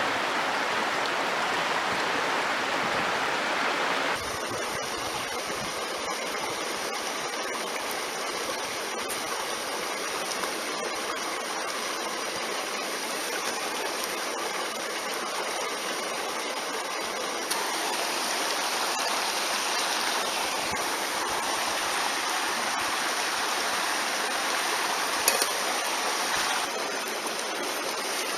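A mountain stream rushing steadily, a constant loud wash of water. Its tone shifts slightly twice, and a single faint click comes near the end.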